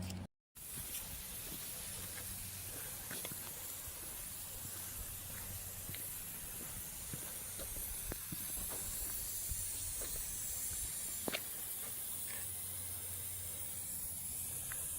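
Freshly repaired lawn sprinkler head spraying water: a steady hiss with scattered faint clicks.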